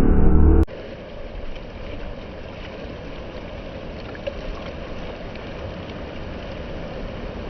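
A louder engine sound cuts off abruptly under a second in. It is followed by a boat's engine running steadily under a haze of wind and water noise.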